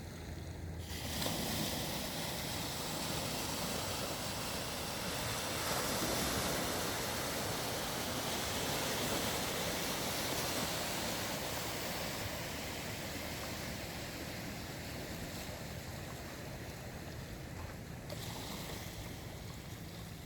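Ocean surf: a wave breaks about a second in, and its wash swells and then slowly ebbs away.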